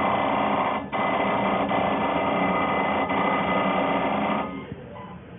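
Automatic brake-disc balancing machine running: a loud, steady mechanical whine with many tones. It dips briefly about a second in and stops suddenly a little over four seconds in.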